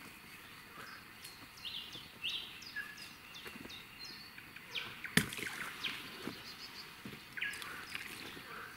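Songbird calling with short high chirps, some falling in pitch and some held briefly, over a quiet outdoor background. A single sharp click sounds about five seconds in.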